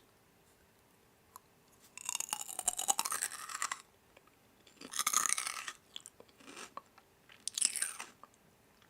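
Crunchy food being bitten and chewed close to the microphone, in three loud crunching spells about a second long each, a couple of seconds apart, with faint clicks between.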